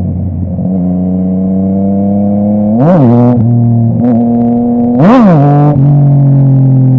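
Yamaha MT-09's crossplane three-cylinder engine through a full Akrapovic exhaust, running steadily on the road. It gives two quick throttle blips, the revs rising sharply and dropping back: one about three seconds in and a louder one about five seconds in.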